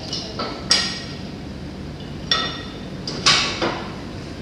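Sharp metallic clanks and clinks with a short ring, several of them, loudest about two-thirds of a second in and again around three seconds in, as the metal end cover of an engine's cooler is refitted with tools.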